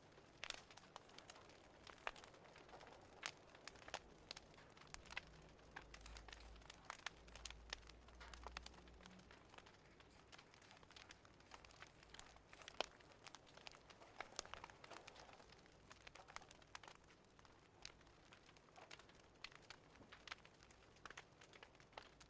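Fireplace crackling softly: irregular sharp pops and snaps of burning wood, a few a second, over a faint hiss.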